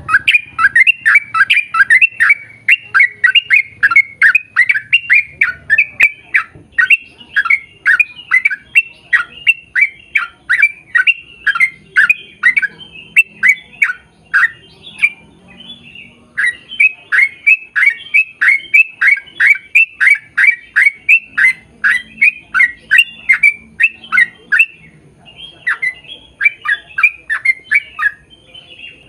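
A bird calling over and over in a rapid series of short, harsh, downward-sliding calls, about four or five a second, broken by two short pauses.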